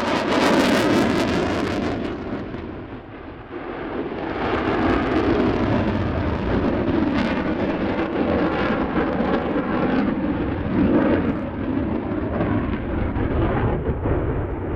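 Loud jet noise from a Eurofighter Typhoon's twin EJ200 turbofan engines during a display pass. It dips about three seconds in, then builds again with a sweeping, phasing quality.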